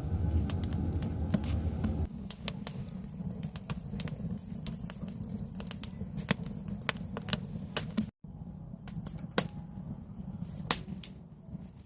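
Firewood burning in a wood stove, crackling with frequent sharp pops over a low rumble of flame; the rumble drops about two seconds in, and the sound cuts out for a moment near the end.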